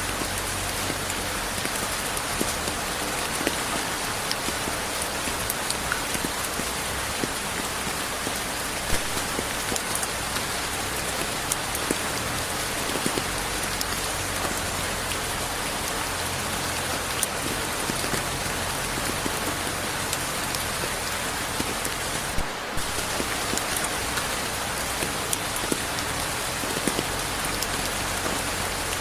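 Steady rain without thunder, a dense even hiss with many individual drops ticking on a surface. A momentary dropout about three-quarters of the way through.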